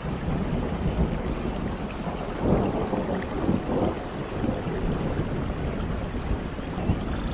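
Steady rain with low rolling thunder rumbling, swelling about two and a half seconds in.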